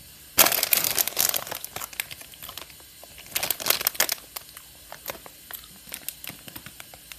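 Plastic candy bag crinkling as it is handled, in two main bursts, one about half a second in and one a little past three seconds in, with scattered smaller crackles between.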